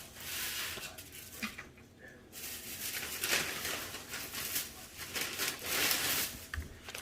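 Rustling and crinkling of firework packaging being handled, in several irregular bursts with a few light knocks.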